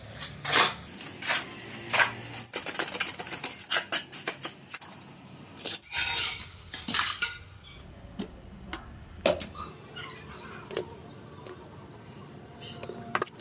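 Metal hand tool clinking and scraping against a hard floor surface: irregular sharp clicks and short scrapes, busy for the first half and thinning to fainter, scattered clicks after about halfway.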